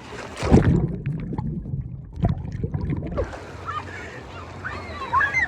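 A splash as the camera plunges into water, then about two and a half seconds of muffled underwater sloshing with a knock, before it breaks the surface again about three seconds in, into open-air water noise.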